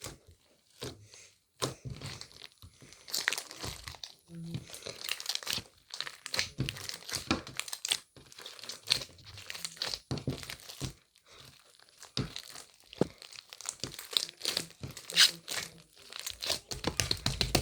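Irregular crinkling and crackling of something being handled and crumpled: many quick sharp crackles, sparse at first and dense from about three seconds in.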